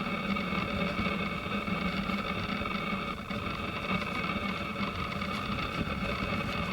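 A steady mechanical hum made of several held tones, unchanging throughout.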